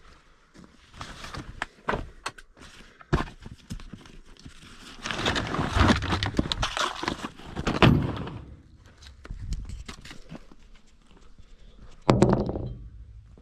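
Tools and gear being handled: irregular knocks and clanks, a longer stretch of rattling clatter in the middle, and a heavier thunk near the end.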